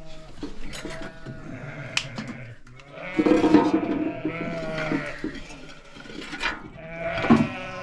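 A flock of sheep and goats bleating, several calls overlapping, loudest about three to five seconds in and again near the end, with a few sharp clicks among them.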